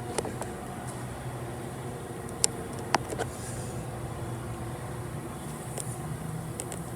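Steady low mechanical hum, with a few sharp clicks about two and a half and three seconds in.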